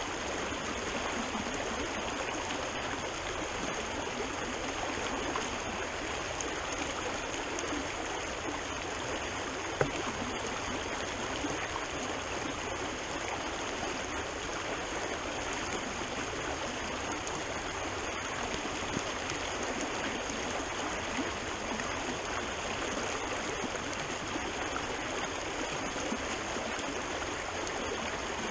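Rain-swollen creek water rushing steadily, with one short knock about ten seconds in.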